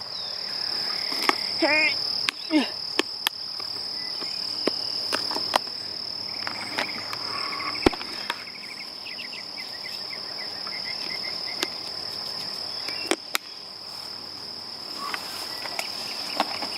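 Steady, high-pitched insect chorus, with scattered sharp clicks over it.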